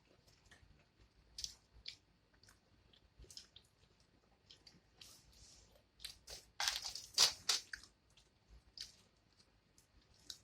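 Close-miked mouth sounds of someone eating: wet chewing and crunchy bites, in short irregular crackles that grow busiest and loudest about six to eight seconds in.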